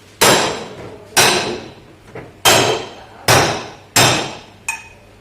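Hammer blows on sheet metal, six strikes about a second apart, each ringing briefly: panel-beating a dented car body panel.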